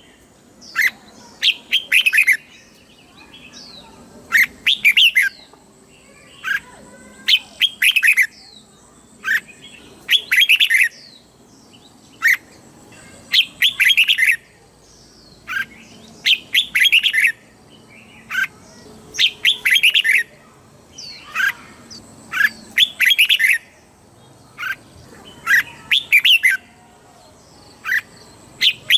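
Red-whiskered bulbul singing: short, loud phrases of a few quick, clear notes, repeated about every one and a half to two seconds.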